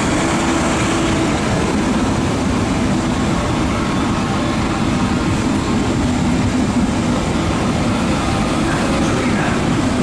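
Frecciarossa 1000 (ETR 400) high-speed electric train running slowly past the platform. Its wheels and running gear make a steady rumble with a constant low hum.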